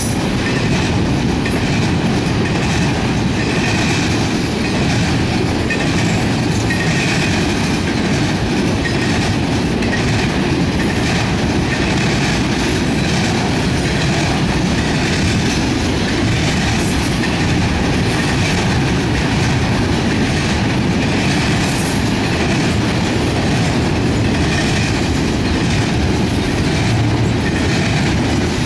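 Freight cars of a CSX intermodal train, carrying highway trailers and containers on flatcars, rolling past: a loud, steady rumble of steel wheels on the rails.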